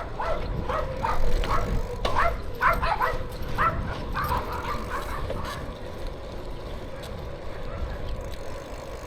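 A small dog yapping in quick, repeated barks, about two or three a second, which stop about five and a half seconds in. A faint steady hum and low rumble run underneath.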